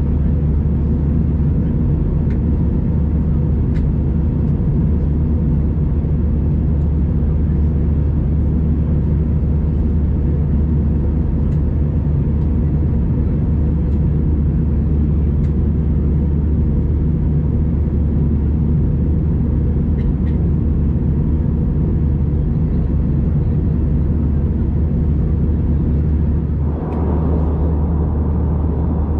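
Airbus A319 cabin noise in flight: a steady, loud rumble of airflow and CFM56 engines with a faint steady hum. The tone shifts slightly near the end.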